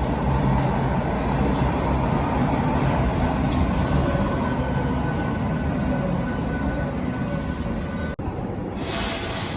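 Berlin U-Bahn large-profile train running on the rails, a steady rumble with a faint high whine. The sound breaks off for a moment about eight seconds in, then continues a little quieter.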